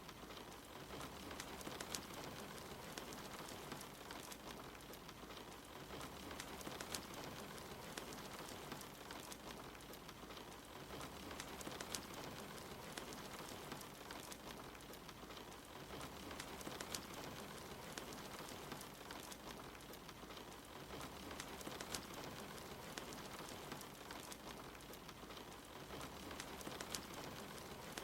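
Steady soft rain mixed with a crackling wood fire, with sharp pops from the fire every few seconds.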